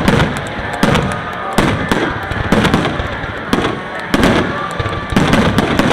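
Fireworks display going off in a rapid run of loud shell bursts, a heavy bang every half second to a second with crackling reports in between.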